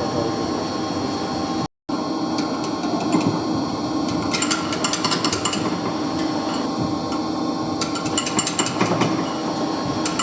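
Metal hand tools tapping and scraping on a dismantled circulation pump, in short flurries of rapid light clicks, over a steady machinery hum.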